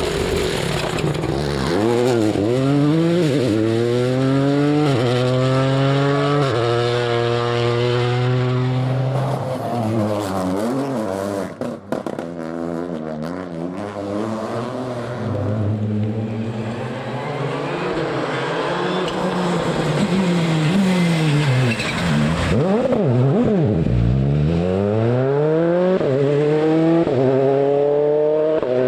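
Rally car engines revving hard on a stage, climbing in pitch and dropping at quick gear changes several times in the first ten seconds. After a short break about twelve seconds in, another run follows, with the engine rising and falling through the gears again near the end.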